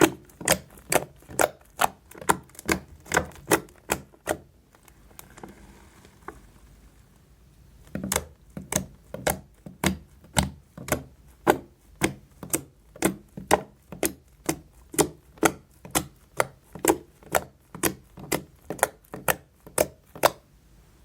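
Fluffy slime made from Lifebuoy soap bar being pressed and squeezed by hand, giving crisp, sharp pops at a steady two to three a second. The pops stop for about three seconds a quarter of the way in, then resume at the same pace.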